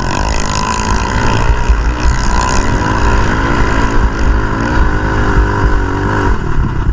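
Pit bike engine running close by with its revs rising and falling, then dropping away near the end.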